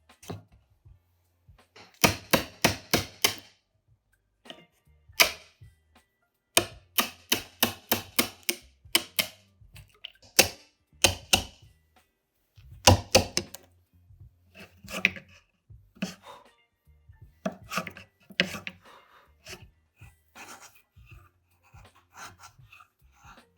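Sharp taps of a tool striking wood, coming in quick runs of several strikes with short pauses between, softer and more scattered near the end.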